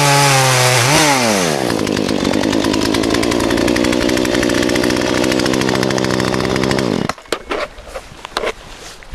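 Chainsaw revving, then running steadily under load as it cuts through the trunk of a fallen tree. About seven seconds in it cuts off suddenly, leaving a few faint knocks.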